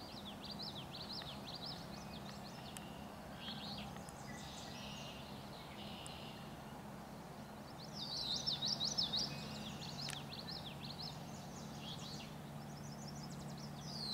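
Songbirds singing in quick warbling phrases, loudest about eight seconds in, with a short trill near the end, over a faint steady low hum.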